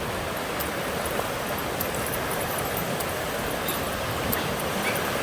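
Steady rushing of water in a creek, with a few faint high clicks.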